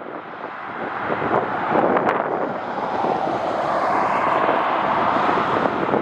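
Jet airliner engines growing steadily louder as the aircraft draws near, with wind buffeting the microphone.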